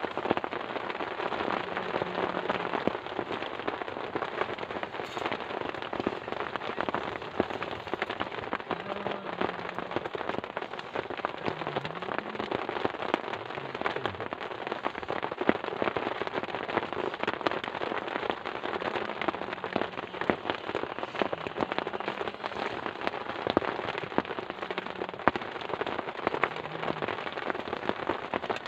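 Steady heavy rain, with dense raindrops ticking on a nearby surface.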